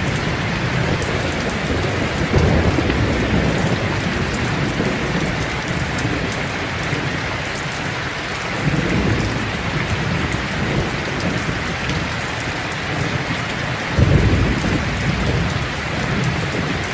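Steady rain with low rolls of thunder swelling now and then, the strongest one about fourteen seconds in.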